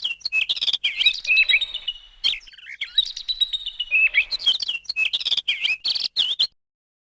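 Birds chirping and twittering in quick, pitch-flicking calls, which stop abruptly about six and a half seconds in.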